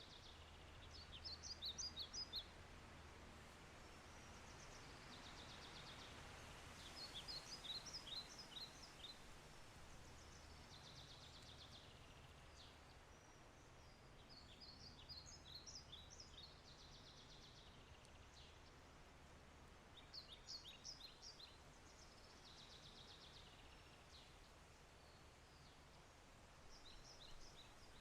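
A songbird singing short phrases of quick, high notes, repeated every few seconds, over a faint steady hiss of gentle rain.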